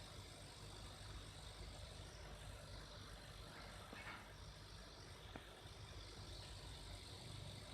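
New 1/5 HP SR-75 refrigerator compressor running on the bench with no load, a faint steady low hum.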